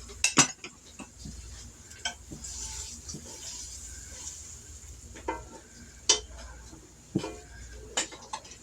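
Flour-coated chicken thighs frying in a skillet with a faint sizzle, while a utensil clacks and scrapes against the pan several times, the loudest knock about half a second in.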